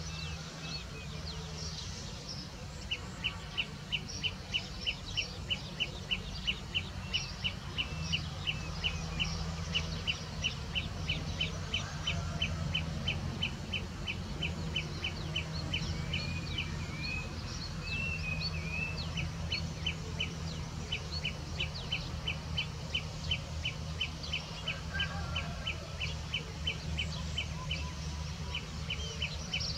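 Outdoor birdsong: one bird repeats a short, high note about four times a second in long runs, while other birds chirp now and then. A steady low hum runs underneath.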